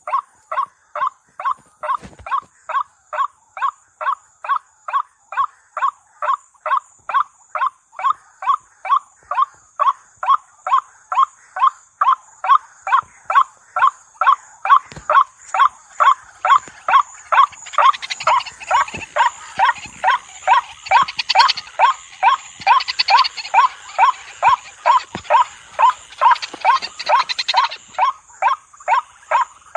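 White-breasted waterhen calling: one short croaking note repeated steadily about two and a half times a second, with a constant high insect-like hiss behind it. From about 18 s to 28 s a denser, harsher layer of higher calls joins in.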